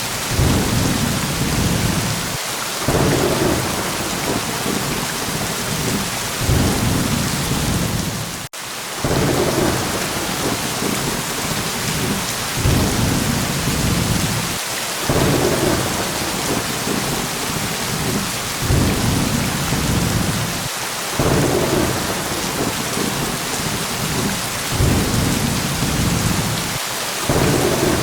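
Steady heavy rain hissing, with low thunder rumbles rolling in every few seconds. A momentary dropout about a third of the way through cuts the sound for an instant.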